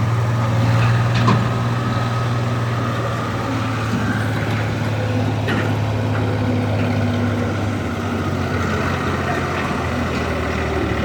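Sonalika DI 50 tractor's diesel engine running steadily, with a couple of brief knocks about a second in and near the middle.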